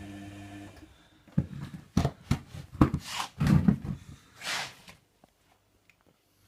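Washer-dryer: a steady motor hum cuts off, then for about three and a half seconds there are loud thuds and swishing, which settle into near silence.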